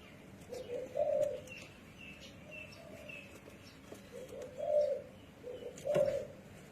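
Spotted dove cooing in three low phrases, with a run of four short high chirps early on between the first and second phrase.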